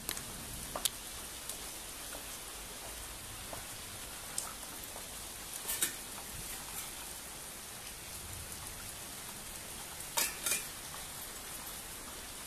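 Light rain falling, a steady even hiss, with a few sharp ticks close by, the loudest a pair near the end.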